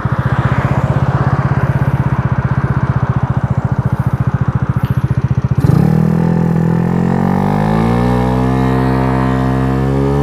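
Small four-stroke scooter engine, an 88cc big-bore Dongfang DF50SST, idling with an even pulsing beat. About six seconds in, the throttle opens and the engine note climbs steadily and then levels off as the scooter pulls away. The revs run high on light 6.5 g variator rollers, which the rider finds way too high.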